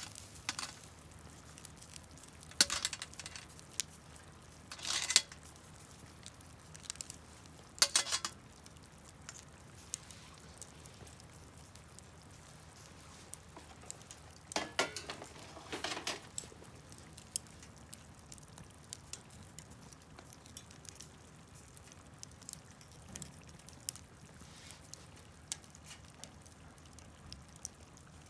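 A few short scrapes and clinks of utensils against cookware, the longest pair about halfway through, with faint scattered ticks between them.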